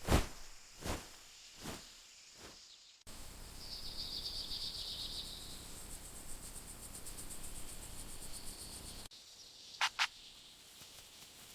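Outdoor ambience with a chorus of insects trilling high and fast, after a few fading pulses. Near the end there are two quick chirps.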